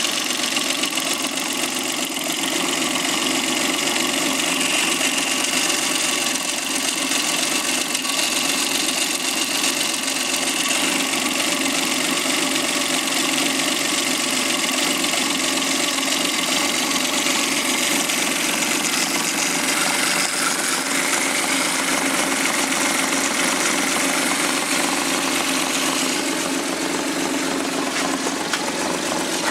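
Suzuki K6A 660 cc three-cylinder engine from a JB23W Jimny running steadily at idle, with a slight change in its tone about twenty seconds in.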